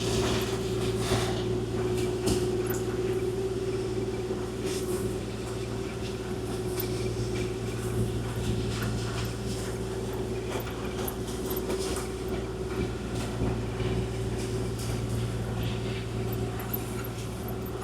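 Kubota KX040-4 mini excavator running steadily, its diesel engine humming with a constant hydraulic whine, while scattered short clicks and scrapes come from the work.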